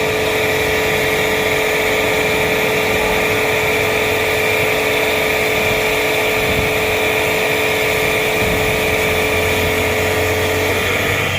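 A motor-driven machine running steadily, a constant hum with a hiss above it and no change in speed.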